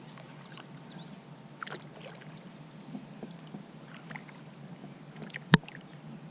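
Kayak paddling on calm water: small splashes and drips from the paddle, with one sharp knock about five and a half seconds in.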